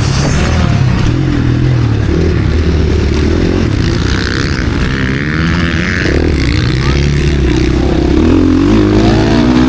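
KTM SX-F single-cylinder four-stroke motocross engine racing hard, its pitch climbing and dropping again and again as it is throttled up and shifted.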